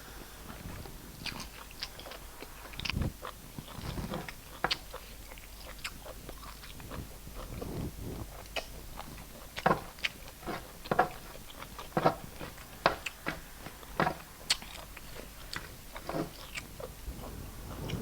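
Close-miked eating: chewing and biting, with many short, sharp wet mouth clicks and smacks that come thicker and louder in the middle of the stretch.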